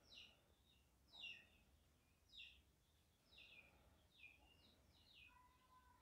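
Faint bird chirps: a short, high, falling chirp repeated about once a second. A faint steady tone joins for about the last second.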